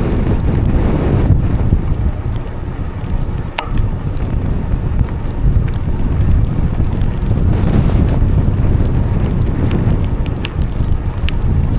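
Wind buffeting the microphone while riding a bicycle: a loud, steady low rumble, with one sharp click about three and a half seconds in and a few faint ticks near the end.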